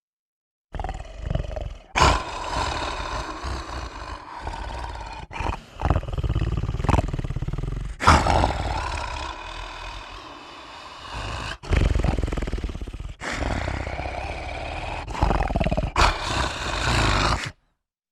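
Horror sound effect of creature roars: a run of loud, rough roars that begin and break off abruptly, one after another, then stop dead near the end.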